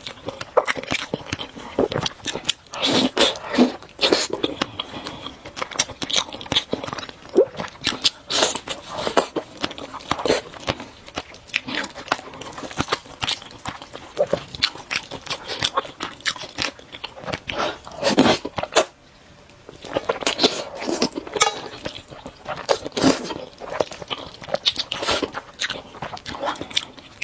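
Close-miked mukbang eating: a person chewing noodles, with many short wet smacks and clicks, pausing briefly about nineteen seconds in.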